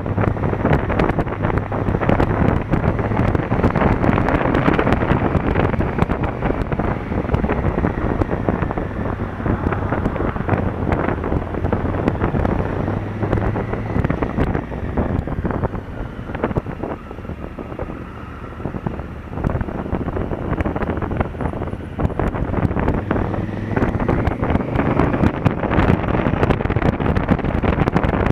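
Wind rushing over an action camera's microphone on a moving motorcycle, with the Honda Africa Twin CRF1000L's parallel-twin engine running underneath as a low hum. The noise eases off partway through, then builds again near the end.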